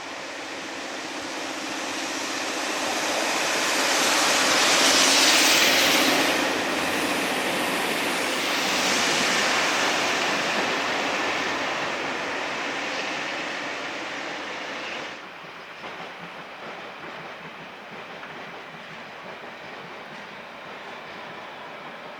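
A train running past on the line, growing louder to a peak about five seconds in and again around nine seconds, then fading. The sound drops suddenly about fifteen seconds in, leaving a lower steady background noise.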